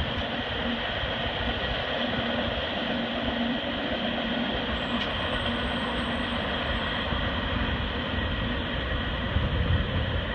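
Steady rumble of a CSX freight train rolling on the rails, with a low hum coming and going.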